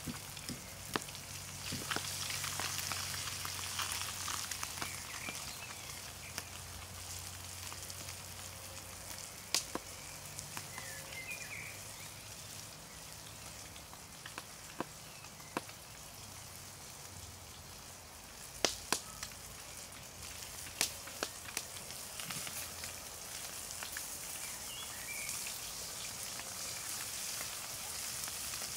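Roach frying over a campfire: a steady sizzle with a few sharp pops scattered through it. The fish are browning.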